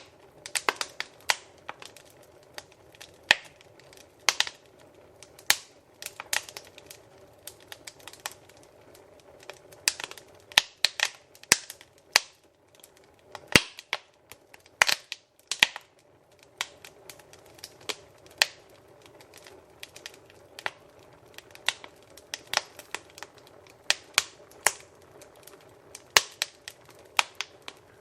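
Wood fire in a fireplace crackling: irregular sharp pops and snaps, sometimes several in quick succession, over a faint steady hiss of the flames.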